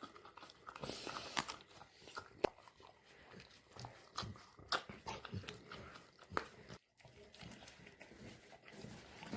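A dog eating fast, with irregular sharp clicks and smacks of its jaws and teeth as it chews and gulps its food.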